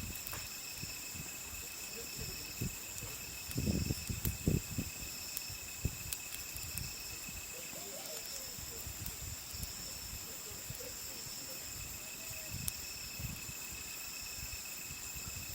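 Night insects trilling steadily in several high, overlapping pitches, with a few faint crackles from a wood campfire and a short run of low thumps about four seconds in.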